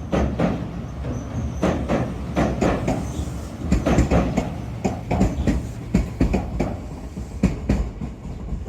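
Shizuoka Railway electric train running past over a bridge, a low rumble with a run of wheel knocks clacking over the rail joints.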